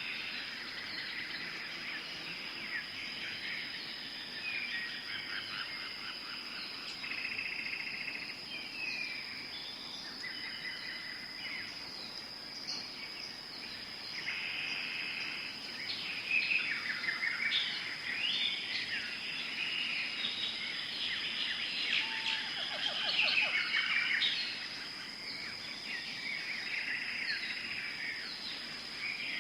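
Tropical forest ambience: many birds calling and trilling over a steady, high insect drone.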